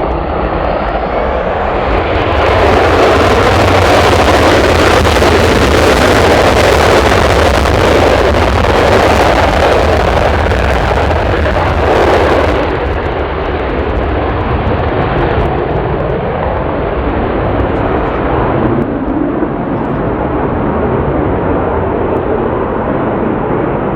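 Boeing 767 freighter's jet engines running loud during a landing. The sound swells about two seconds in and stays strongest for about ten seconds, then settles into a steadier, duller noise.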